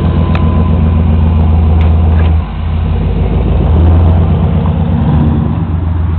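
2002 Dodge Ram 1500's 4.7-litre V8 pulling away from a stop through a glasspack muffler exhaust, with a deep, loud exhaust note. The sound drops briefly about two and a half seconds in, then builds again and eases off near the end.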